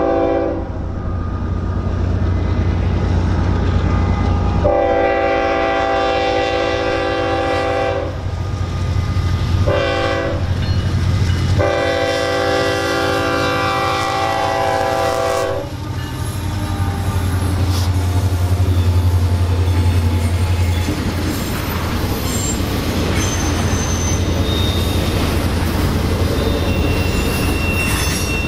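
Norfolk Southern diesel freight locomotives sounding the horn for a grade crossing: a blast ends just after the start, then come a long blast, a short one and a final long one. The locomotives' low engine drone follows as they pass. Then comes the clatter of the double-stack container cars' wheels on the rails, with faint wheel squeals near the end.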